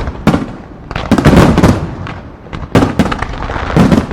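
Fireworks display: aerial shells bursting in quick succession, sharp loud bangs one after another, each trailing off in a rumbling echo, with a dense run of overlapping bangs about a second in.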